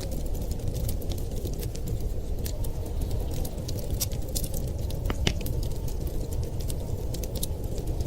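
Wood fire crackling: irregular sharp pops and snaps, one stronger crack about five seconds in, over a steady low rumble.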